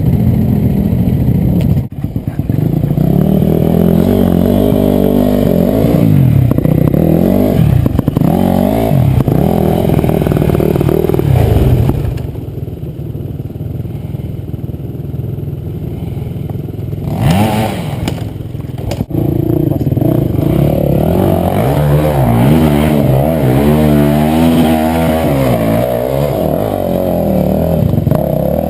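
Enduro dirt-bike engines revving hard, pitch rising and falling as the bikes labour and pass, at times two bikes at once. The sound drops off for a few seconds around the middle, then a sharp rev about two-thirds of the way through before the engines pick up again.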